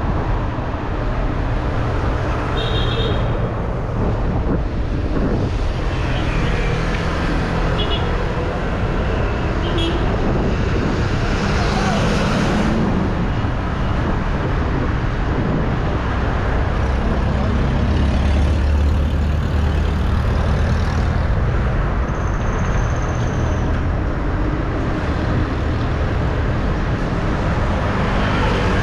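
Road traffic noise heard from a moving bike: a steady rush of wind and road noise with passing vehicle engines, and a few brief high tones over it.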